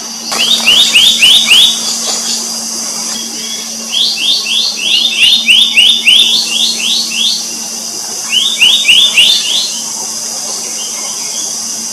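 Black-naped monarch calling in three bouts of quick, rising whistled notes, about five or six a second, each bout lasting one to three seconds. A steady high-pitched drone and a faint low hum run underneath.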